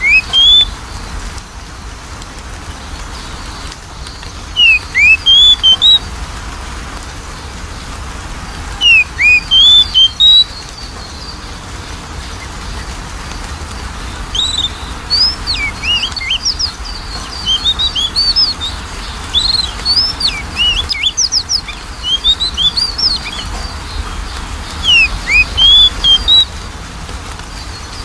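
Oriental magpie-robin (kacer) song: loud phrases of clear, gliding whistles, with a longer, faster run of varied notes in the middle. It is a lure recording meant to prompt a reluctant magpie-robin to sing.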